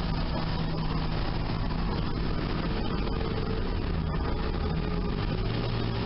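Sunbeam Alpine's four-cylinder engine running on the road with its solid-lifter valve lash freshly set, under a steady rush of wind and road noise. The engine note drops lower about five seconds in.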